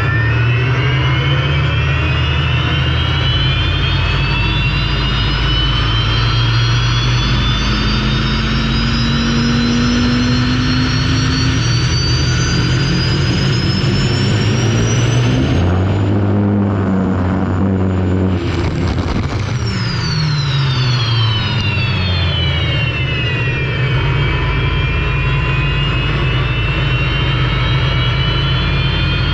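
Turbine engine of an unlimited racing hydroplane heard from onboard, a loud whine climbing steadily in pitch as it speeds up. About halfway through the sound briefly breaks up, then the whine falls for several seconds before climbing again near the end, over a constant rushing noise.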